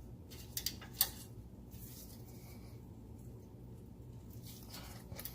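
A few light clicks and taps from exhaust pipe parts being worked into place by hand: a couple about half a second and one second in, and more near the end, over a faint steady hum.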